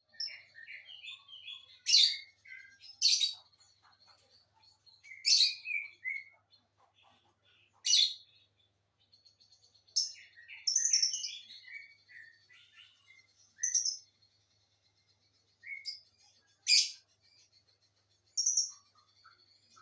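A pair of lovebirds calling: quieter chattering notes broken by about eight sharp, high, piercing calls spaced a second or more apart.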